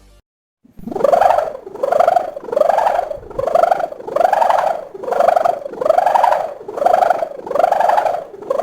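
A sendaren (sawangan) kite hummer sounding: a loud buzzing hum that swells and fades a little more than once a second, each swell arching up and back down in pitch. It starts just under a second in and keeps pulsing.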